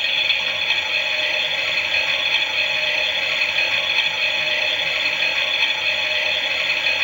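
Toy Klein Miele washing machine's small electric motor and gears running steadily, a high, whirring mechanical drone that turns the drum during a wash.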